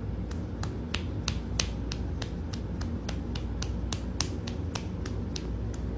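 Sharp clicks repeating evenly, about three a second, over a low steady hum.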